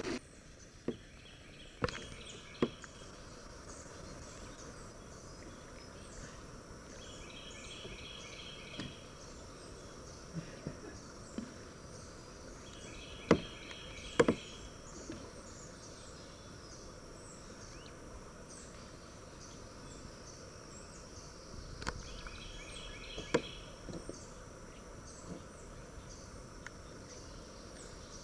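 Summer insects buzzing steadily, with a bird or insect repeating a short trilled phrase every few seconds. A few sharp knocks stand out, two of them loud about halfway through.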